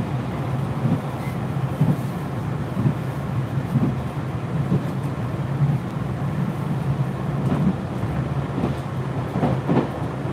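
Cabin noise inside a moving JR Hokkaido Limited Express Ozora diesel train car: a steady low running rumble with light, irregular clacks from the wheels on the rails.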